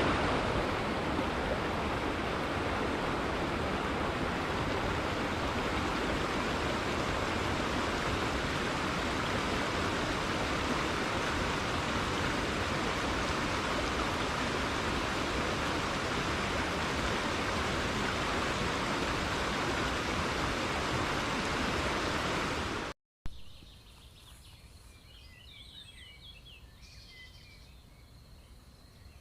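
A steady rush of flowing water, even and unbroken, that cuts off abruptly near the end. After it, a much quieter outdoor background with a thin, steady high tone and a brief flurry of faint bird chirps.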